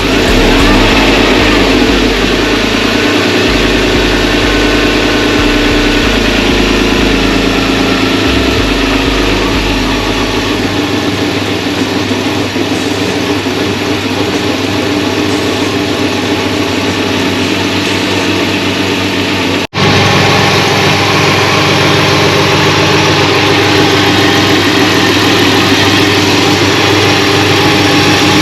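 BMW E34 520i's M50 2.0-litre straight-six idling from a cold start, just after an intake overhaul. A deep low throb fades out about ten seconds in, and the sound drops out for an instant about twenty seconds in before the steady idle goes on.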